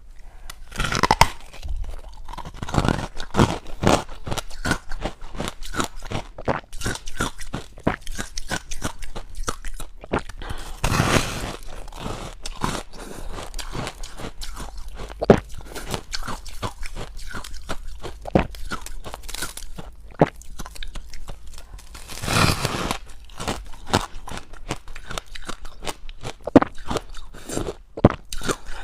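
A person biting and chewing large chunks of deep-freezer ice, with continuous sharp crunching and cracking close to the microphone. Louder, longer crunches come about a second in, around the middle, and about three quarters of the way through, where fresh bites seem to be taken.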